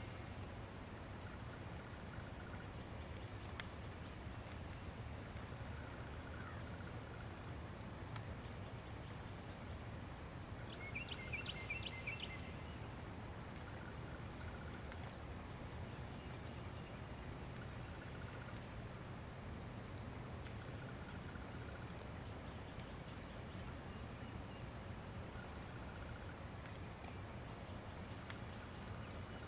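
Small birds giving scattered short, high chirps, with a quick run of about five notes roughly eleven seconds in, over a steady low background hum.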